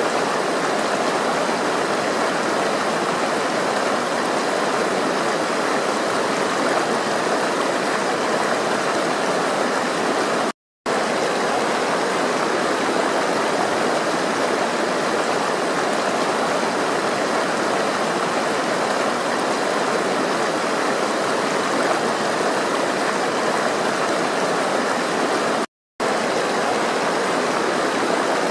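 Steady rush of flowing water, like a stream. It cuts out twice to brief silence, about eleven and twenty-six seconds in.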